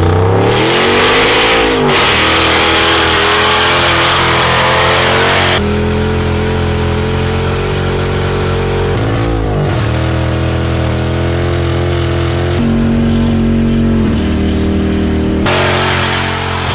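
Turbocharged LS V8 revving hard in a burnout, with the rear tyres spinning and squealing on the road. The revs drop and climb again about two seconds in and again near the middle, and the sound jumps abruptly a few times between camera angles.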